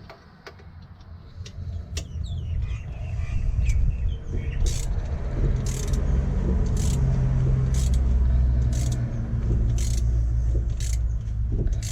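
A hand ratchet being worked on a nut, giving a short burst of clicks on each return stroke, about once a second. Under it is a low, steady engine rumble from a vehicle that builds up over the first few seconds.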